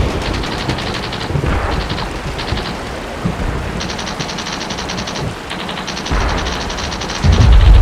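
Bursts of rapid automatic machine-gun fire, about ten shots a second, several bursts of one to one and a half seconds each, over steady rain. A deep rumble rises near the end.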